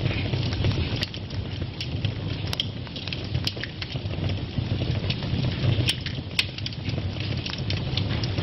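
Fire burning in a fireplace: a steady low rumble of flames, with sharp crackles and pops at irregular intervals, two of the loudest a little past the middle.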